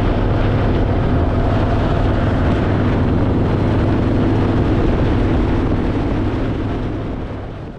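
Harley-Davidson Fat Boy's V-twin engine running steadily under way, with wind noise on the microphone. It fades out near the end.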